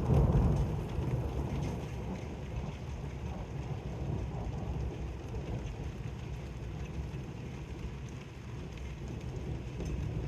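The tail of a thunder rumble fading away over the first couple of seconds, then steady rain falling in a weak thunderstorm.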